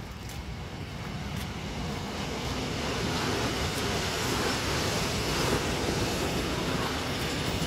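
Freight train hauling cement wagons rolling past on the main line. Its rumble grows louder over the first three seconds as it approaches, then holds steady.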